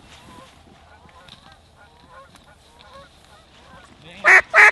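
Faint distant geese and ducks calling. About four seconds in, a loud, evenly spaced series of quacking calls begins.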